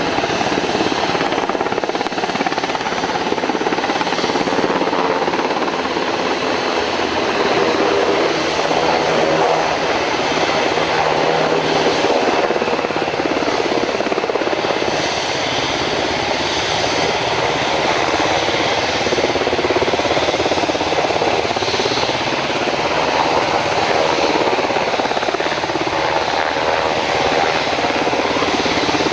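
Helicopter running with a steady, unbroken noise.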